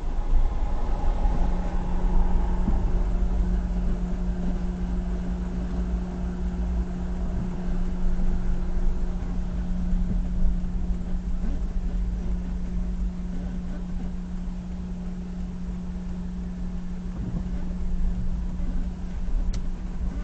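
Steady road and engine drone inside a moving car's cabin: a low rumble with a constant hum over it.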